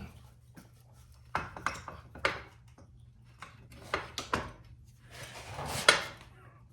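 Metal motorcycle parts and hand tools being handled: a series of scattered clinks and knocks, then a brief scraping rub that ends in a sharper knock near the end.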